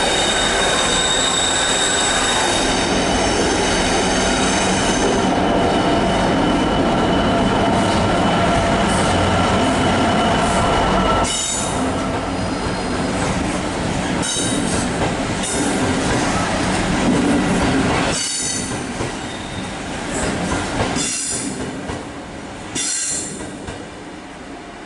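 A convoy of Class 66 diesel-electric locomotives running through the station: engines running and wheels squealing, with a high-pitched squeal strongest for the first few seconds. The sound is loud for about the first eleven seconds, then drops, with short squeals coming and going as the last locomotives pass.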